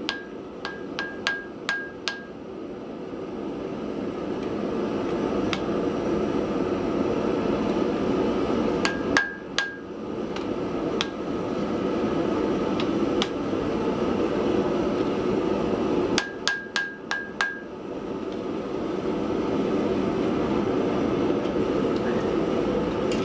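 Hand hammer flattening metal on an anvil in three quick runs of blows: at the start, around nine seconds in, and around sixteen seconds in. Each blow rings. Between the runs a steady rushing noise rises and holds.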